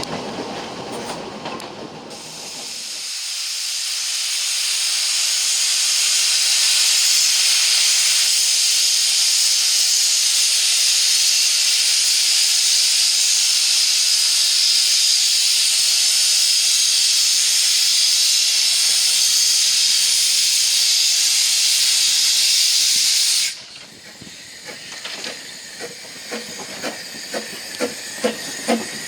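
Narrow-gauge train running, then about two seconds in a loud, steady hiss of escaping steam from the Double Fairlie steam locomotive builds up, lasts some twenty seconds and cuts off suddenly. Afterwards the train's running noise returns, with wheel clicks settling into an even beat of about two a second near the end.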